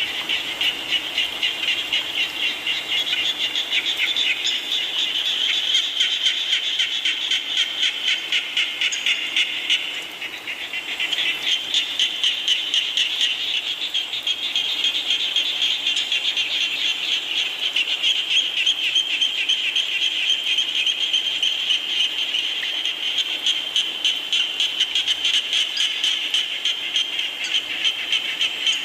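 A chorus of frogs calling in fast, pulsing trills that overlap into a continuous din, briefly thinning about ten seconds in.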